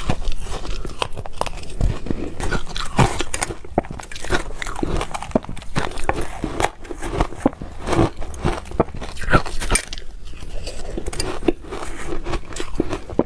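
Ice being bitten and chewed: a dense, irregular run of sharp crunches and cracks.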